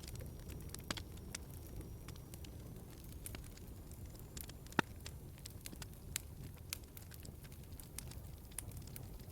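Log fire crackling in a fireplace: a steady low rumble of flames with scattered sharp pops, one louder pop about halfway through.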